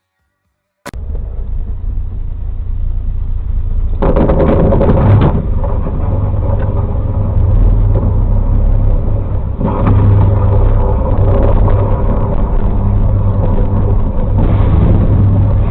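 Motor vehicle engine and road noise, starting abruptly about a second in and running loud and deep, swelling louder three times.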